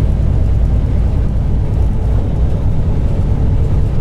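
Semi truck running steadily at highway speed: a continuous low engine and road rumble, heard from inside the cab.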